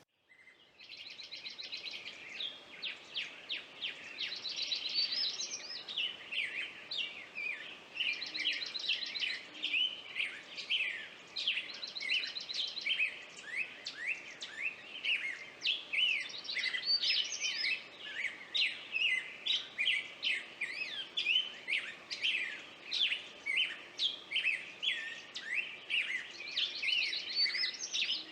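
Songbirds singing and calling together: a dense chorus of quick, high chirps with short rapid trills breaking in every few seconds.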